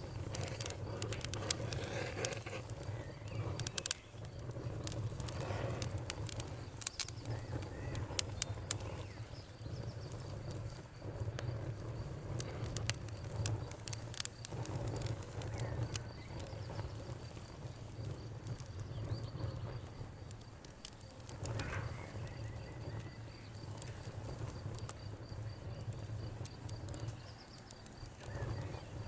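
Wood fire crackling, with frequent sharp pops over a steady low rumble of the flames. A cricket trills steadily at a high pitch from a few seconds in, and a bird calls now and then.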